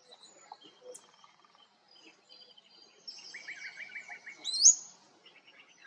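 Several wild birds calling and singing: scattered thin, high notes, a quick run of about eight notes a little past the middle, and one loud, sharply rising whistled note about four and a half seconds in.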